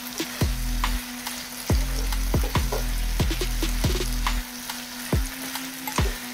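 Chilli mushrooms in a thick sauce sizzling in a pan as a spatula stirs them, with small scrapes and clinks against the pan, under background music with a steady thudding beat.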